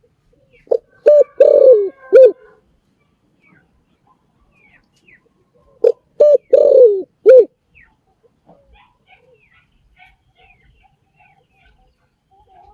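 Spotted dove cooing: two phrases about five seconds apart, each a few short low coos with a longer, falling coo near the end. Faint chirps of small birds between the phrases.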